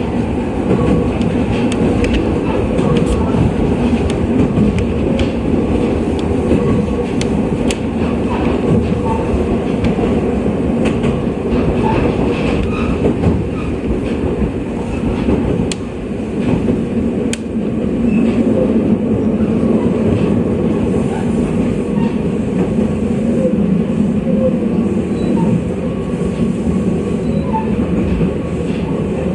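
Running sound of an Oigawa Railway 7200 series electric railcar (ex-Tokyu), heard from inside the car: a steady rumble of wheels on rail and running gear with scattered sharp clicks. The sound dips briefly about halfway through, then comes back a little louder.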